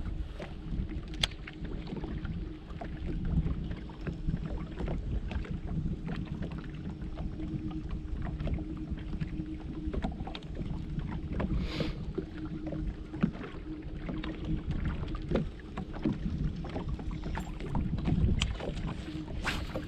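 Bass boat on the water: a steady low rumble and a constant low hum, with scattered light knocks and clicks throughout.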